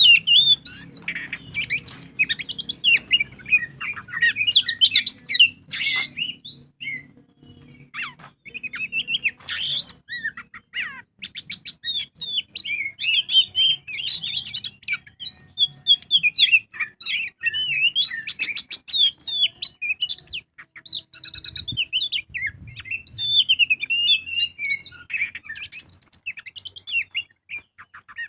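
Oriental magpie-robin (kacer) in full song: a long, varied run of whistled sweeps, rapid trills and quick chattering notes, with a brief pause about seven seconds in.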